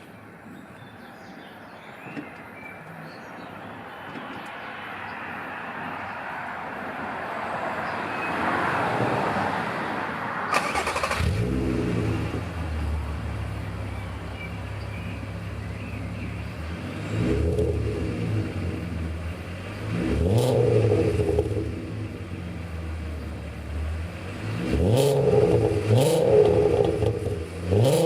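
A VW Golf R32's 3.2 V6 starts about ten seconds in through a non-resonated stainless Scorpion cat-back exhaust, settles to a deep idle, then is blipped about four times, each rev rising and dropping back. Before the start there is only a rising and falling rushing noise.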